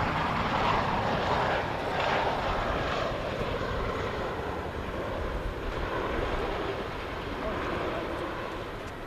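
CH-47J Chinook tandem-rotor helicopter flying past at low altitude under rapid acceleration: a dense rotor and turbine noise, loudest in the first few seconds, then fading and dropping in pitch as it moves away.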